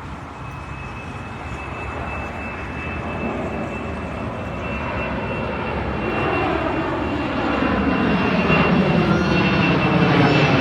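Boeing 767 jet engines at go-around thrust, growing steadily louder as the airliner approaches. A steady high fan whine rides over the roar.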